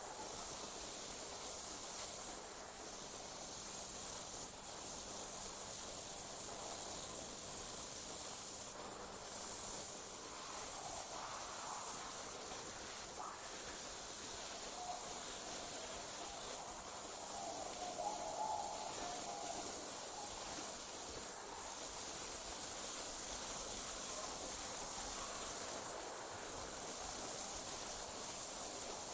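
Night insects, crickets, trilling in a continuous high-pitched chorus that breaks off for a moment every few seconds.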